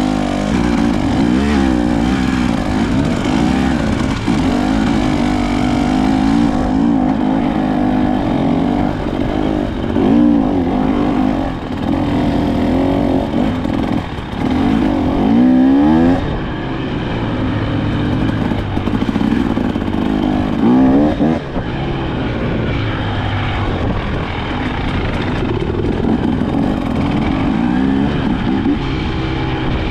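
KTM 300 XC-W two-stroke dirt bike engine being ridden, the revs rising and falling continuously. There are sharp climbs in revs about ten, fifteen and twenty-one seconds in.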